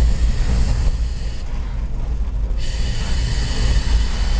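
Vintage twin tram running, heard from on board: a steady low rumble, with a high hiss carrying faint whistling tones that drops out about one and a half seconds in and comes back a second later.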